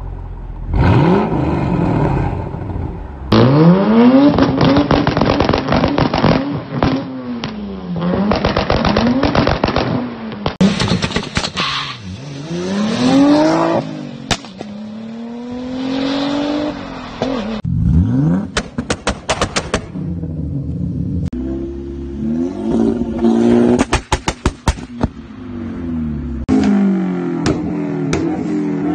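A run of different tuned cars' engines revving hard and falling back, again and again, with rapid crackles and sharp bangs from the exhaust: rev-limiter and launch-control backfires.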